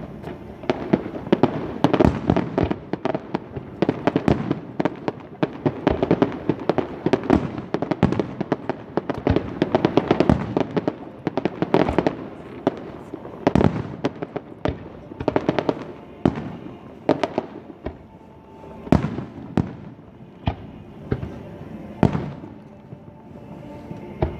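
Aerial fireworks going off in dense, rapid volleys of bangs and crackles, thinning out after about two-thirds of the way through to separate loud reports a second or so apart.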